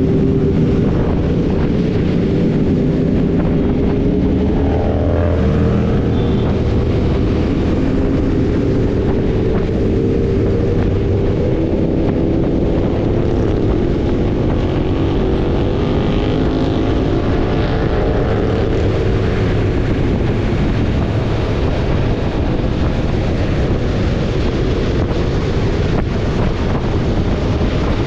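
Motorcycle engines running on the move, their pitch slowly rising and falling with speed, with wind noise on the microphone.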